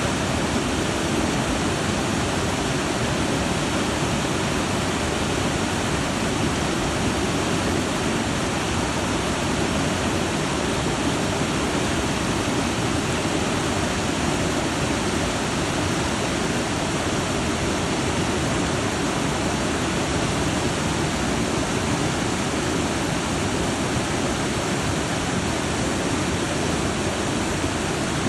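Sand River Falls' water pouring over rock, a steady, unbroken rush of falling water.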